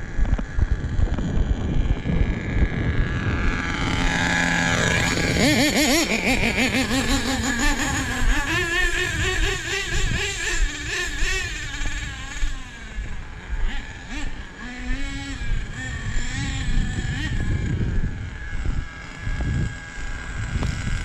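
Small nitro engine of an RC truck running and being revved, its pitch climbing sharply about four to six seconds in, then wavering up and down.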